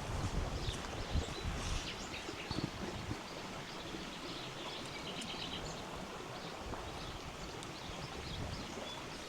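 A river flowing steadily with scattered short birdsong chirps over it. Low thumps come in the first three seconds and again near the end.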